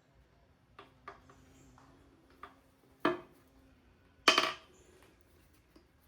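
Metal engine parts and hand tools clinking and clanking as they are handled and set down: a few light clinks, a sharper clank about three seconds in, and the loudest ringing clank a second later.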